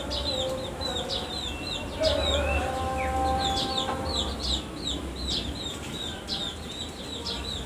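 Eurasian tree sparrows chirping: many short, high chirps in quick succession. A rooster crows in the background during the first half, a held lower call that falls away at its end.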